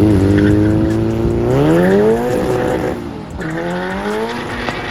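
Cadillac CTS-V's LS2 V8 revving hard under load while drifting, its pitch climbing, dropping sharply about three seconds in, then climbing again, with tyres squealing.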